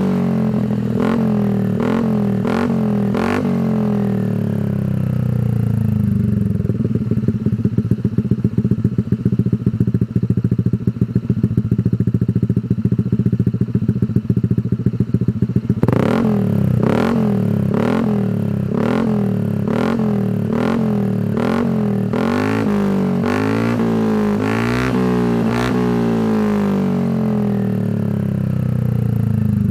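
Honda ADV 160 scooter's single-cylinder engine through an aftermarket Shijiro racing exhaust: a few quick throttle blips, then a steady pulsing idle. About halfway in comes a long series of sharp rev blips, each rising and falling in pitch, before it settles back to idle.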